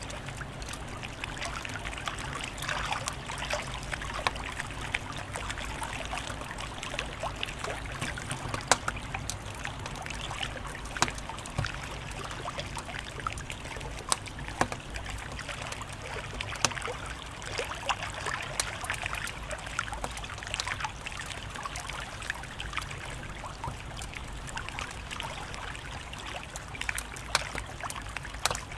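Wood fire crackling in a fireplace: a steady hiss with frequent, irregular sharp pops.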